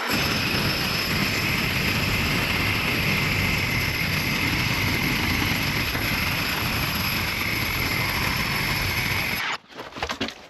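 A power tool's motor running loud and steady, then cutting off suddenly about nine and a half seconds in.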